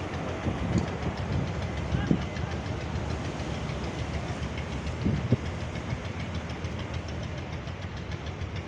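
Cargo boat's engine running with a steady low rumble, with brief louder knocks about two seconds in and twice around five seconds in.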